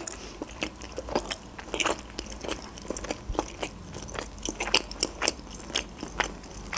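A person chewing a mouthful of manti (steamed meat dumpling with sour cream), with many short mouth clicks and smacks at an irregular pace.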